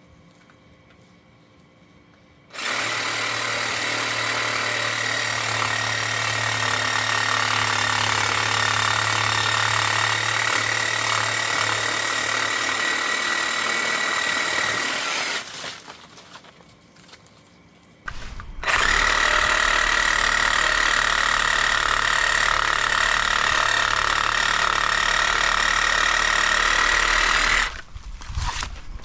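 DeWalt compact cordless reciprocating saw running in two long bursts of about twelve and nine seconds, each starting and stopping abruptly, with a steady high whine over the motor.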